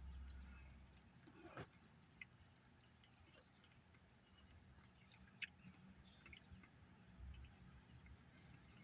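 Near silence, with faint high chirping in the first few seconds and a few soft scattered clicks after it.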